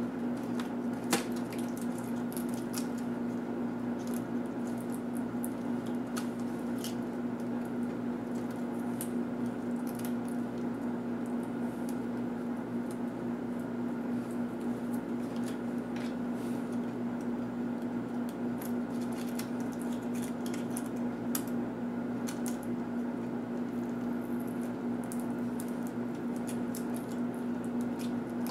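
Steady electrical hum with faint, scattered small clicks and light handling noises of laptop parts being worked on by hand.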